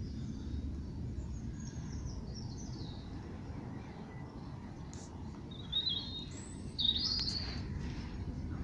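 Small birds singing and chirping, with a few short falling phrases and a brighter pair of chirps about six to seven seconds in, over a steady low outdoor rumble.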